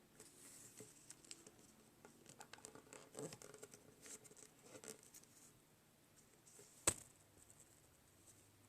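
Faint rustling and scraping of a square of origami paper being folded and creased by hand, with one sharp tick about seven seconds in.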